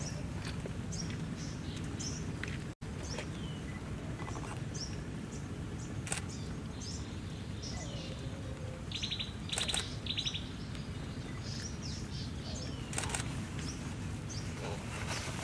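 Forest birds chirping and calling repeatedly, with a few quick pulsed trills, over a steady low rumble. The audio cuts out for an instant about three seconds in.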